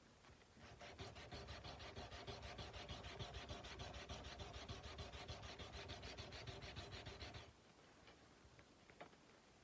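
Sandpaper rubbed by hand back and forth along a steel kukri blade in quick, even strokes. It starts about half a second in and stops suddenly about two seconds before the end.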